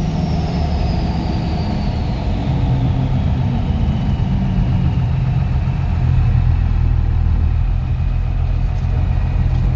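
12-valve Cummins turbo diesel in a 1949 Chevy COE pickup running steadily, its low engine note shifting about two and a half seconds in, with a faint high whine slowly falling in pitch.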